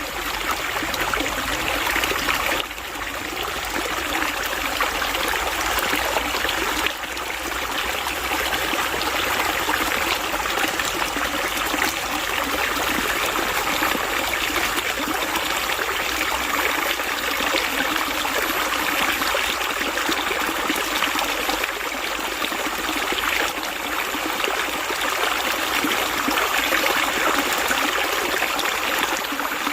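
Running water flowing and trickling steadily, an even rushing noise with a few brief dips in level.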